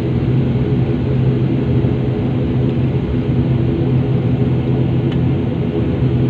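Steady drone of an airliner cabin on the ground after landing: engine and air-conditioning hum with a strong low tone.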